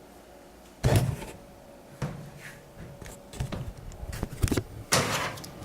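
A series of separate knocks and bumps, the loudest about a second in and again near the end.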